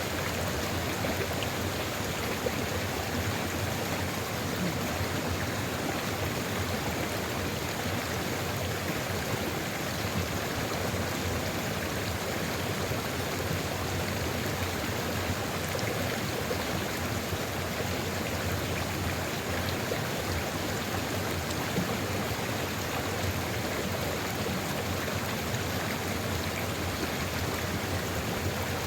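Sulfur river flowing steadily: an even, continuous rush of running water.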